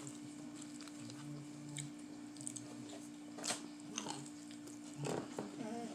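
A person chewing and biting food, with scattered short crunchy clicks and smacks.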